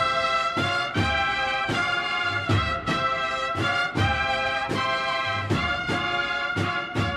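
Brass band playing a slow processional march: sustained brass chords over regular drum strokes about twice a second.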